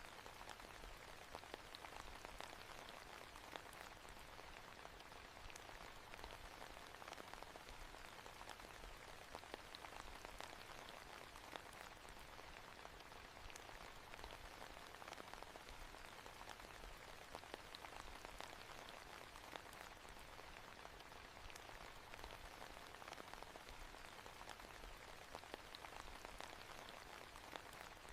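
Steady, soft rain falling on a surface, a continuous patter of many small drop ticks.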